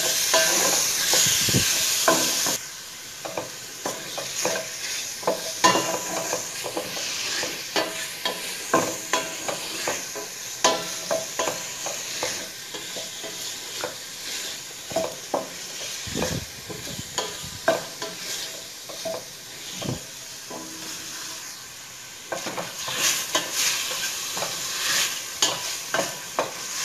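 Raw chicken pieces sizzling as they sauté in hot oil in a stainless steel pot, stirred with a wooden spatula that scrapes and knocks against the pot again and again. The sizzle is loud for the first couple of seconds, quieter through the middle, and rises again near the end.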